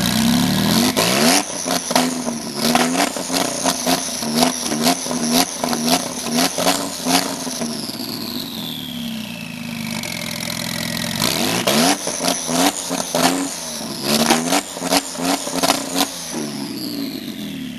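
Porsche 996 Turbo's twin-turbo flat-six, straight-piped with no catalytic converters, revved in two bouts of quick throttle blips with sharp cracks in the exhaust, each bout followed by a high whistle that falls slowly away as the revs drop. Very loud.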